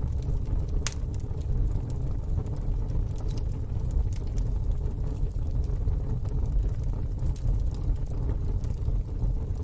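Fire burning in a fire pit: scattered sharp crackles and pops over a steady low rumble.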